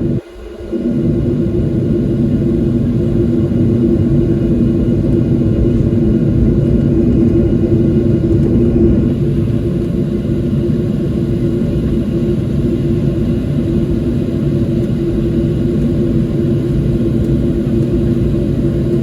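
Steady jet engine drone and rumble heard inside the cabin of a Boeing 737-700 with CFM56 engines, with a steady hum throughout. The sound drops out briefly just after the start.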